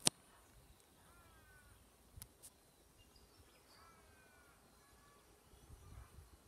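Faint open-air ambience with a few short bird calls, each a quick run of falling chirps. Sharp clicks come right at the start and twice about two seconds in.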